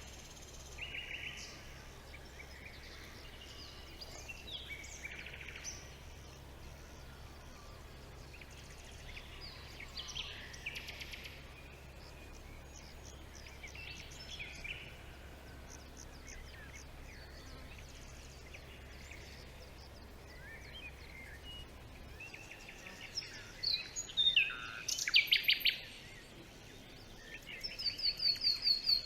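Several wild birds calling and singing: scattered short chirps and trills, with louder rapid-fire series of notes near the end. A low steady hum underlies most of it and stops about three-quarters of the way through.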